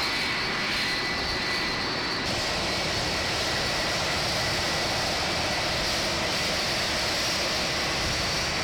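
Airplane engines running steadily: a broad rush with a thin high whine over it, the hiss turning brighter about two seconds in.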